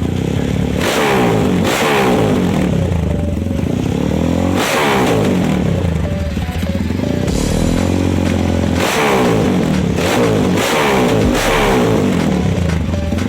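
Motorcycle engine revving, its pitch rising and falling in long sweeps again and again, with short sharp bursts of noise between them.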